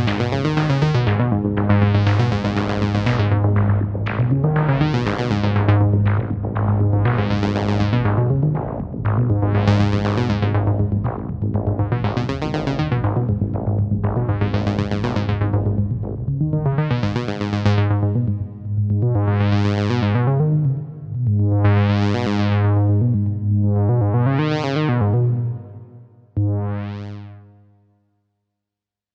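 Moog DFAM and Mother-32 analog synthesizers playing a sequenced pattern: a steady low bass note, with the tone sweeping brighter and darker about every two and a half seconds. Near the end the pattern stops, one last note rings out and fades, and silence follows.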